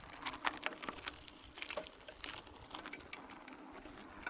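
Faint, irregular clicks and taps, a few each second, with no steady sound beneath them.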